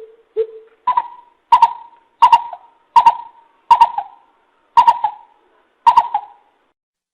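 Coucal (bìm bịp) calling: a series of about nine short, hollow hoots, roughly one every two-thirds of a second, the first two lower and the rest about an octave higher, each starting with a sharp click.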